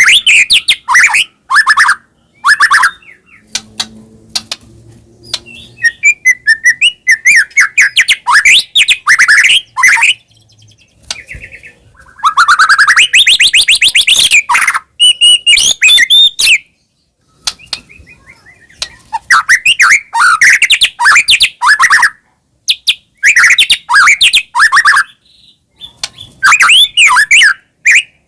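White-rumped shama (murai batu) singing loudly in a full, varied song packed with mimicked phrases: rapid trills, whistles and sweeping notes, delivered in bursts separated by short pauses.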